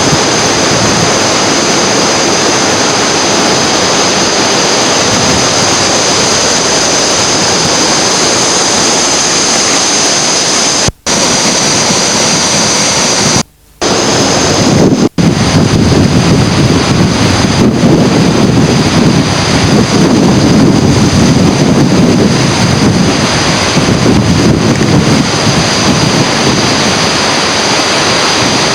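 Loud, steady rushing of rough water, with wind buffeting the microphone. The sound cuts out briefly three times near the middle.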